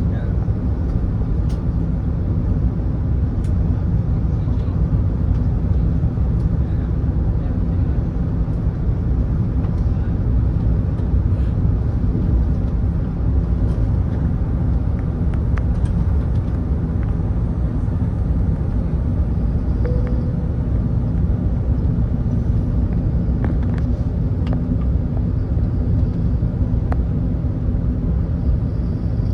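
Steady low rumble of cabin noise inside an Airbus A380 airliner in flight, from its engines and the airflow, with a few faint clicks.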